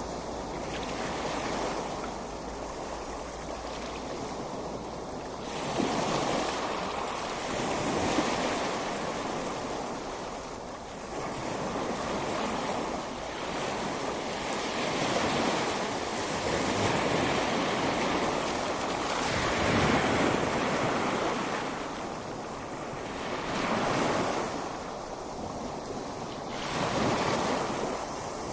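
Ocean waves breaking on a beach, the surf swelling and receding in slow surges every few seconds, with wind.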